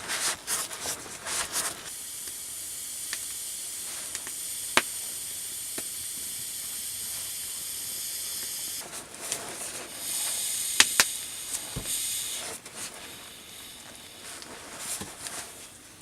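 Campfire hissing steadily, with a few sharp cracks and pops.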